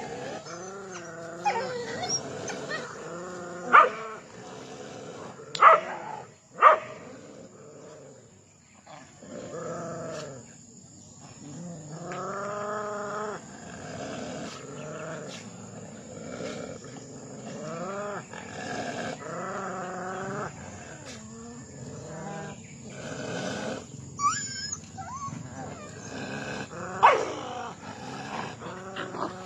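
Street dogs growling and whining in long, wavering calls, broken by a few sharp barks, three close together early on and one near the end.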